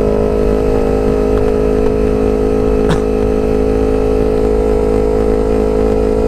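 Motorcycle engine with a racing exhaust running at steady revs while cruising, a level, unchanging drone. A short tick sounds about three seconds in.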